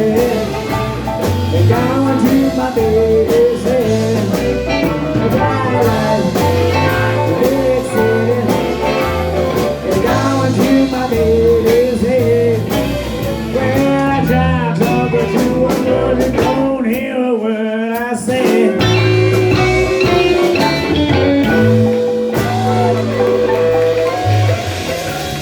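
Live blues band playing an instrumental passage: a guitar lead with bent, wavering notes over bass and drums. About seventeen seconds in, the bass and drums drop out for roughly a second while the lead carries on alone, then the band comes back in.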